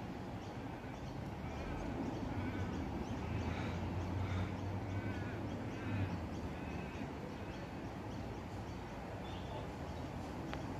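A bird calling outdoors: a run of short calls, about one a second, for most of the first seven seconds, over a steady low rumble and open-air background noise.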